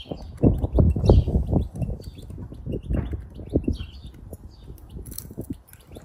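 Small birds chirping faintly, over irregular low thumps and rumbling that are louder than the birds, heaviest in the first two seconds.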